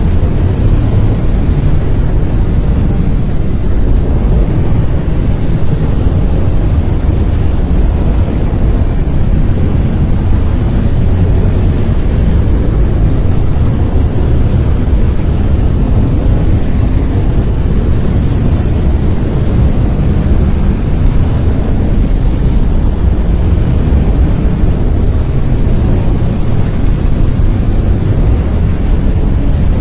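Brown noise: a steady, loud, deep rumbling hiss with its energy concentrated in the low end, unchanging throughout.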